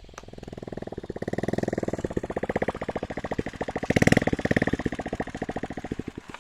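A small engine running with a fast, even chugging beat. It grows louder to a peak about four seconds in, then fades, as when a motorbike or small farm machine passes.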